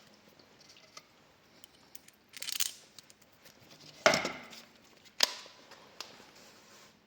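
Handling knocks and clicks on a wooden work surface: a short scrape or rustle, then one loud knock about four seconds in and a sharp click about a second later, with no drill running.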